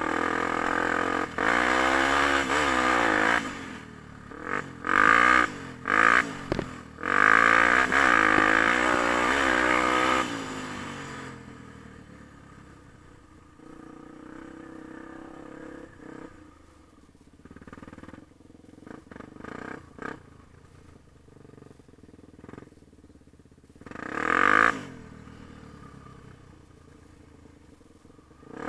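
Yamaha TT-R250 dirt bike's single-cylinder four-stroke engine revving hard, its pitch rising and falling through the gears for about ten seconds. It then drops to a quiet run with a few short throttle blips, one louder blip a few seconds before the end.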